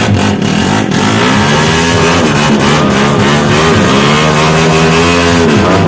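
Motorcycle engine revving, its pitch rising and falling several times, with a sharp drop near the end before it climbs again.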